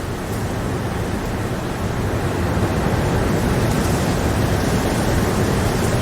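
Steady rain, an even rushing noise that grows a little louder over the first couple of seconds.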